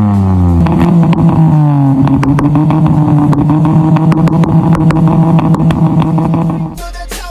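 Maruti Suzuki Alto revving through a custom downpipe exhaust and 4-inch end can. The revs drop, climb again about a second in and are held high, with a rapid run of sharp pops and cracks from the banger kit. The engine sound gives way to music near the end.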